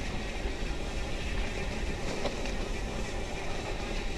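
Mountain bike rolling over a dirt singletrack trail: steady tyre and ground rumble mixed with wind on the microphone, with a few faint ticks from the bike.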